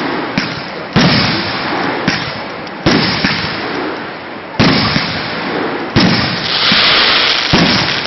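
Fireworks going off: about five sharp bangs a second or so apart, each trailing off in crackle and echo, with a bright hissing fizz about seven seconds in and smaller pops between.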